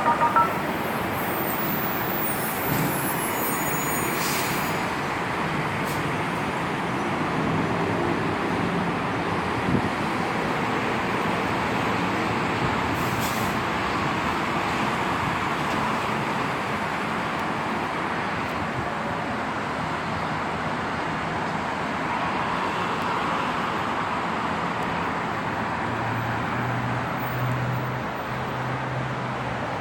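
Steady road traffic noise from passing vehicles, with high faint tones in the first few seconds and a low engine hum near the end.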